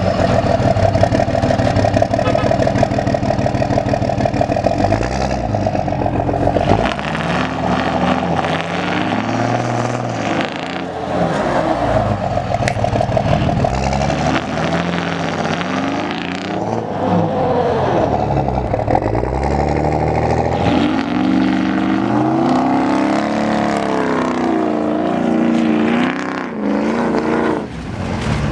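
Diesel pickup truck engine running hard, then from about seven seconds in revving up and down again and again while the truck is stuck in snow.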